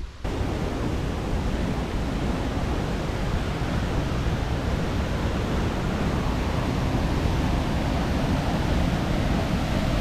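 Waterfall roaring: the steady, even rush of Illgen Falls, cutting in abruptly just after the start.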